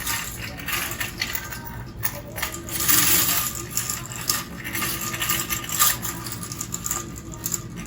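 Clatter and rustle of groceries being handled: a run of sharp clicks and knocks, with a longer rustle about three seconds in.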